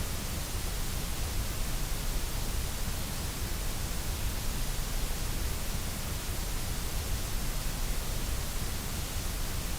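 Steady white noise: an even, unbroken hiss with no change from start to finish.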